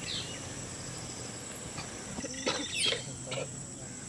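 Small birds chirping over a steady rural background of insects, with a few light knocks about two and a half to three and a half seconds in.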